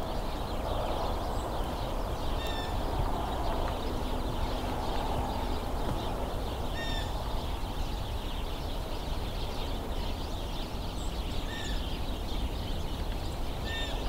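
A large flock of house sparrows chattering and squabbling continuously, with a few louder chirps standing out about four times, over a steady low rumble.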